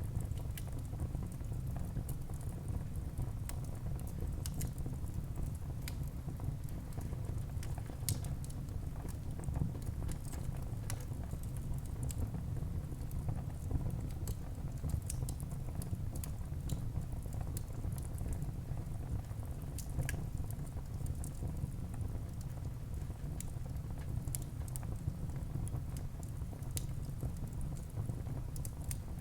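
Wood fire burning in a fireplace: frequent small crackles and sharp pops at irregular moments over a steady low rumble.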